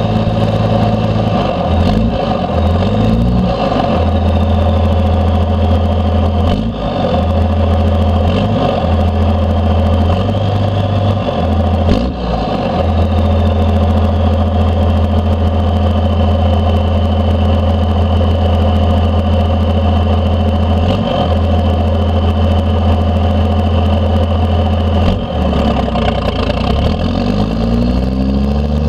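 1992 Dodge D350's 12-valve Cummins turbo-diesel, straight-piped through a 5-inch stack, running under load while driving. The engine note changes with gear shifts near the start, about the middle and near the end. Over it runs a thin high turbo whistle that rises and falls.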